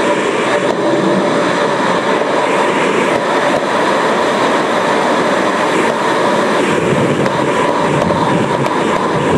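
Automatic car wash equipment running close by: a loud, steady rushing noise with a faint high whine held through it.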